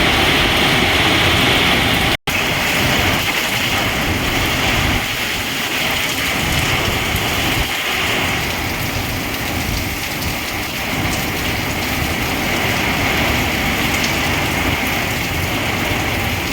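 Heavy rain pouring down in a steady hiss, cut off for an instant about two seconds in.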